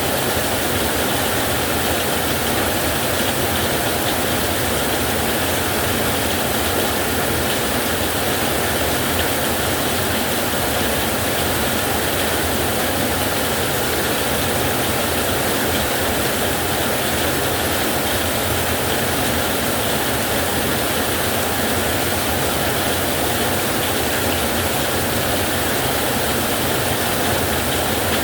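Heavy rain on a metal roof: a steady, dense hiss with no let-up and no thunderclap.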